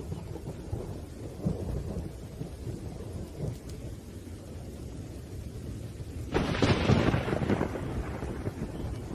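Thunderstorm: thunder rumbles low and continuously under steady rain. About six seconds in, a sudden, louder thunderclap breaks in and rolls away over a couple of seconds.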